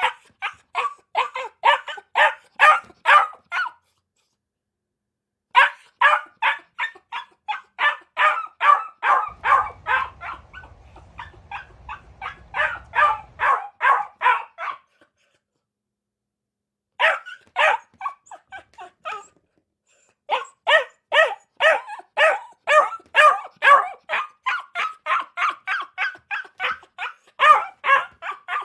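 A dog barking over and over in quick runs of about four barks a second, broken by a few short silent gaps.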